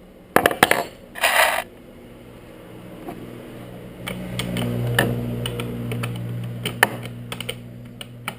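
Sharp metallic clicks and clinks as the bar-cover nuts of a Stihl MS170 chainsaw are undone with the combination wrench and set down, with a short scraping rasp about a second in. From about three seconds a low steady hum swells and then fades under the clicks.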